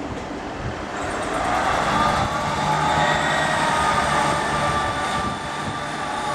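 Class 158 diesel multiple unit pulling out, its engines and transmission building to a slowly rising note from about a second in.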